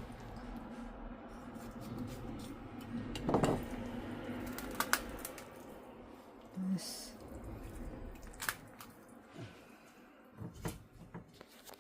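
Quiet kitchen handling sounds: scattered light clicks and small knocks of a pot and utensils, with faint wet dripping noises.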